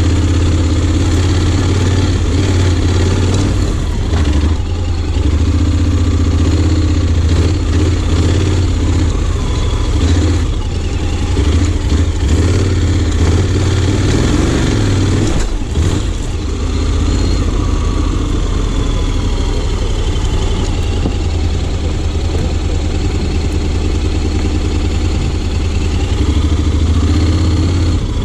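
Honda X-ADV 750's parallel-twin engine running steadily under way, its note easing off briefly a few times, about 4, 10 and 15 seconds in.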